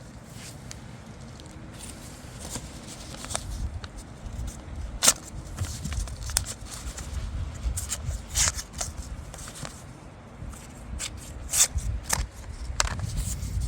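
Wind buffeting the microphone as an uneven low rumble, with scattered sharp clicks and rustles of handling; the loudest click comes about five seconds in.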